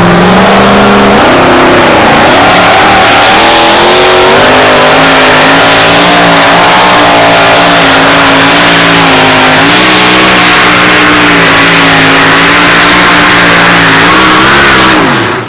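A two-wheel-drive pulling truck's engine running at full revs under load down the track, very loud. The pitch climbs about a second in, holds high with small rises and dips, then drops sharply and dies away near the end as the truck comes off the throttle.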